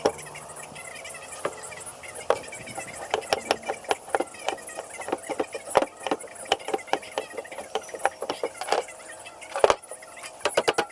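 Irregular light clicks and knocks from small wooden pieces being handled and worked, coming several a second through the middle.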